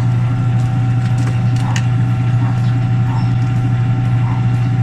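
Sharp automatic washing machine running in spin: a loud, steady motor hum with a few faint ticks. The spin is weak because the drain motor is not pulling.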